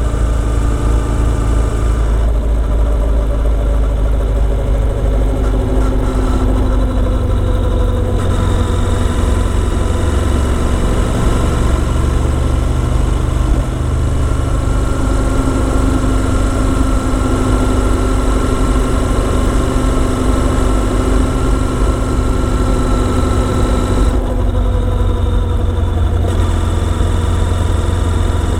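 Motorcycle engine running under way, its pitch drifting slowly down and up with the throttle, with sudden changes in tone about two, eight and twenty-four seconds in, as at gear changes.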